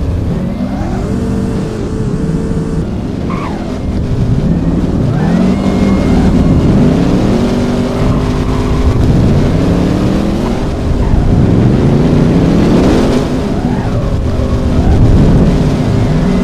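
Car engines revving and accelerating loudly, with one rising run after another, sometimes overlapping.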